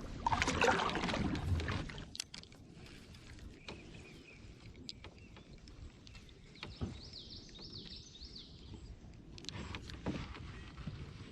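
A canoe being paddled: water swishing with the paddle strokes and scattered light knocks. A bird sings a few quick rising notes over it in the middle.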